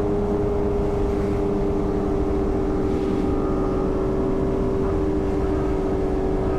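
BMW S1000RR inline-four engine holding a steady high pitch at constant highway speed, heard from the bike itself, with wind rush underneath.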